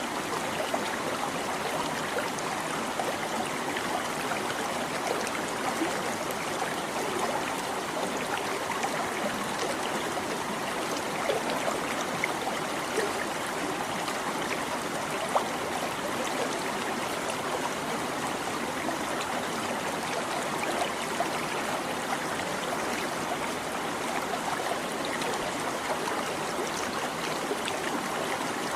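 A small stream babbling steadily over stones, a continuous trickling and gurgling of running water with a few brief splashes.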